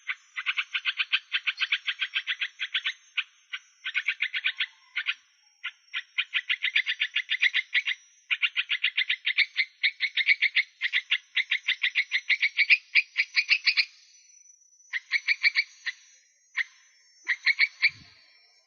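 Animal calls in rapid pulsed trains, about eight pulses a second, broken by short pauses, the longest of them about two-thirds of the way in. A thin, steady high tone runs underneath.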